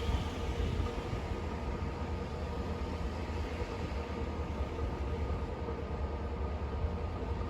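Snowstorm wind blowing without a break: a constant rushing hiss over a low rumble that rises and falls with the gusts.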